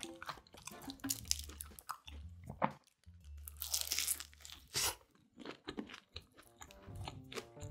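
Close-miked crunching and chewing of pizza, with a loud crunching bite about four seconds in.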